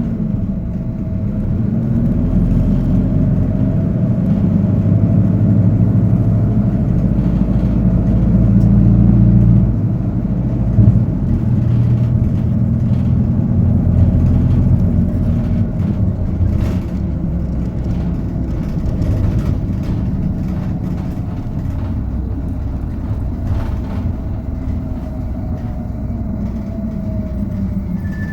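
Hino Poncho city bus in motion, heard from the passenger cabin: the diesel engine pulls and eases off with its pitch rising and falling, over steady road noise. The engine lets off about ten seconds in, and one knock follows about a second later.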